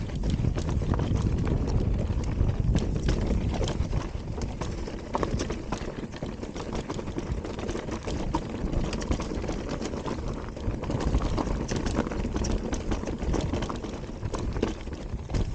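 Electric mountain bike rolling fast over a rocky dirt trail: a constant low rumble of tyres and ground, with many small sharp clicks and knocks from stones and the bike's parts throughout.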